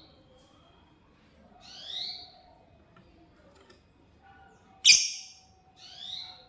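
A lovebird giving three shrill chirps, each a quick upward sweep about half a second long. The second call, a little past the middle, is much louder and sharper than the other two.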